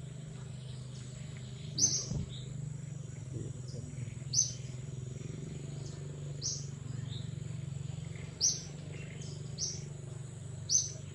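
Birds chirping: short high chirps every second or two, over a steady high-pitched tone and a low steady hum.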